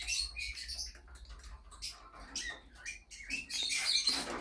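Wet cockatiels during a spray-bottle shower: scattered faint clicks and rustling with a few short rising chirps in the middle, then a louder stretch of hiss near the end.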